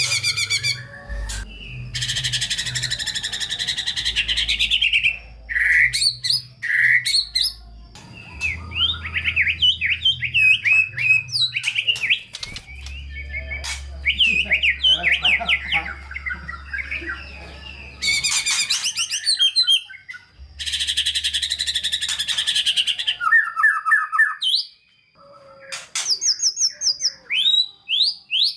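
White-rumped shama singing a loud, varied song: rapid runs of rising and falling whistled notes broken by long harsh, rasping bursts, with mimicked phrases of other birds worked in.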